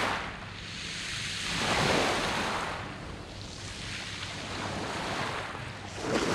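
Sea waves washing in and drawing back on a beach of rounded pebbles. One wave swells about two seconds in, and another breaks near the end.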